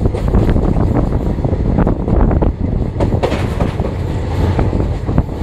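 Express train passenger coach running at speed over a steel girder bridge: a steady heavy rumble with wheels clicking over the rail joints.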